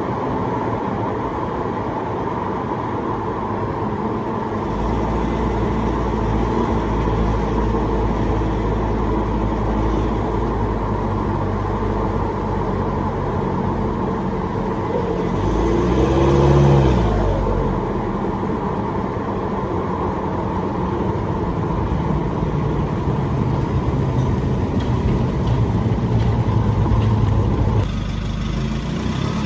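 Nissan Navara pickup's turbodiesel engine running through a muffler-deleted free-flow exhaust while the truck is driven, a steady drone that swells in pitch and loudness briefly about two-thirds of the way through.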